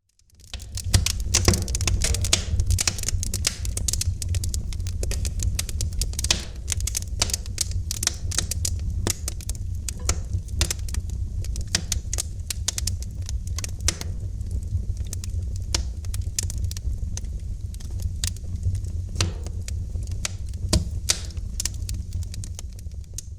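Wood fire crackling in a fireplace: dense, irregular pops and snaps over a steady low rumble. It comes up out of silence about half a second in.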